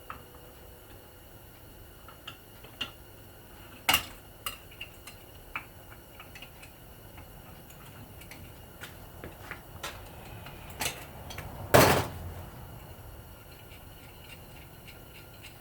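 Hand tools clinking and tapping against the metal parts of a ceiling fan motor being taken apart. There are scattered light clicks, a sharp knock about four seconds in, and a louder, rougher clank a little before twelve seconds.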